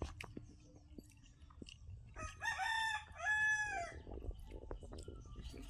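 A rooster crowing once, about two seconds in: one loud call in two drawn-out parts, the last part falling away at the end. Faint scattered clicks sound around it.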